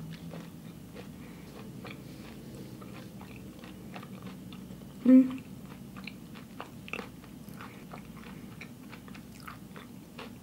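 A person chewing a mouthful of food with closed lips, close to the microphone: many small clicks of the mouth and teeth, with one brief louder sound about five seconds in.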